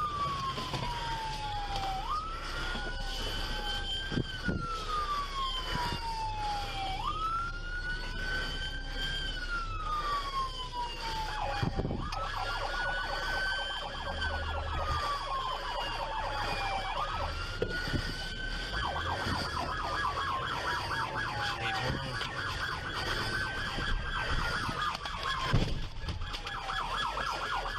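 Police car siren wailing, its pitch climbing quickly and then sliding slowly down about every five seconds. A faster warbling siren tone sounds over it for several seconds in the middle.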